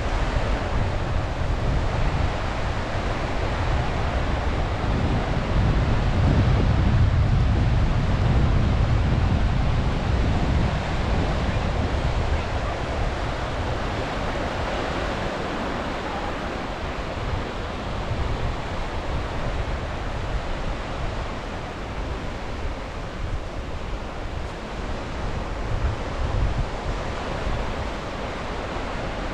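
Sea waves washing steadily onto the shore, mixed with wind buffeting the microphone as a low rumble that is strongest a few seconds in.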